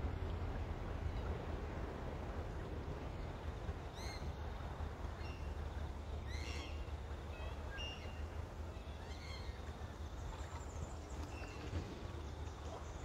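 Birds calling in short chirps and whistles, scattered through with a cluster about six and a half seconds in, over a steady low rumble of wind on the microphone.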